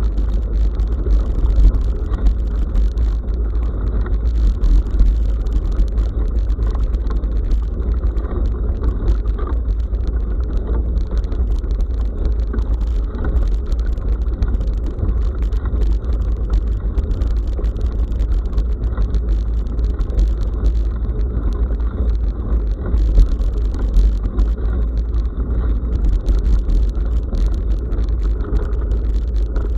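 Bicycle riding on a forest track, heard through an action camera riding along with it: a constant deep rumble of wind and road vibration with a busy rattle over it, steady throughout.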